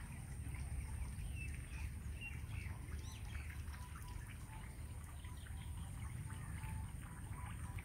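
Small birds chirping and calling, with short high chirps and brief repeated notes, over a steady low rumble.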